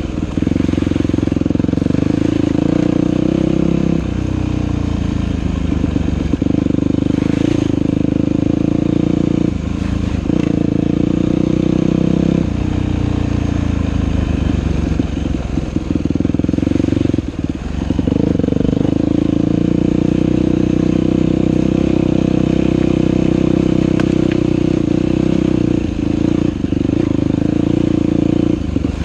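Dirt bike engine running under load on a trail ride, its pitch rising and falling with the throttle, with several brief drops where the rider backs off or shifts before the engine picks up again.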